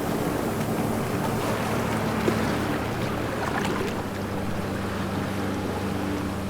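Ocean waves washing steadily, with a low steady hum underneath and a single faint click a little after two seconds.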